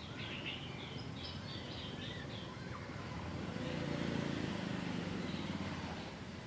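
A bird chirping a quick run of short high notes during the first couple of seconds, over steady outdoor background noise. A low droning sound swells in the middle.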